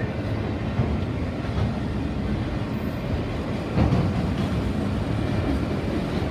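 Freight train's autorack cars rolling past: a steady rumble of steel wheels on rail, with a sharper clunk about four seconds in.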